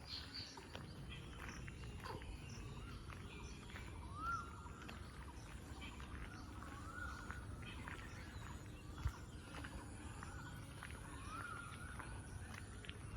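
Birds calling: one bird repeats a short arched whistled note about every one and a half seconds, with scattered higher chirps from others, over a low steady rumble. A single sharp knock about nine seconds in.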